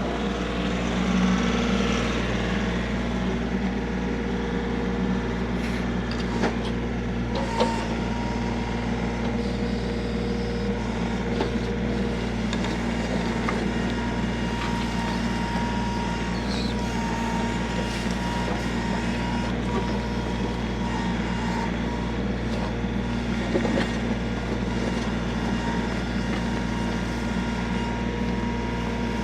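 Engine of a bucket-equipped digging machine running steadily as it digs out dirt, with a few sharp knocks from the bucket.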